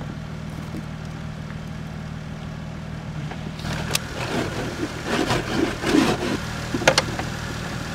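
A Jeep engine idling steadily just after a cold start on jumper cables, after the vehicle sat unused for about a month. A couple of sharp clicks come about halfway through and again near the end.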